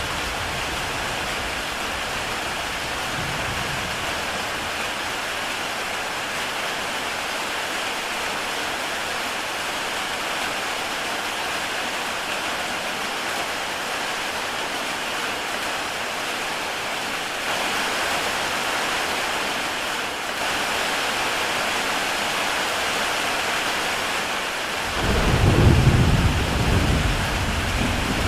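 Heavy rain falling steadily on a tile roof, a continuous even hiss. Near the end a low rumble of thunder rolls in for a few seconds, the loudest sound.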